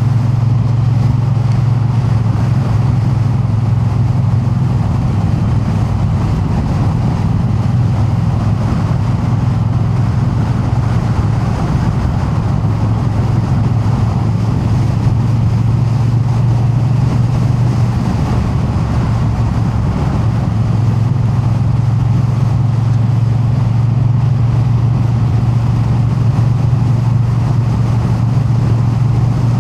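Triumph Bonneville T100 parallel-twin engine running steadily while the motorcycle cruises along the road, with no revving or gear changes.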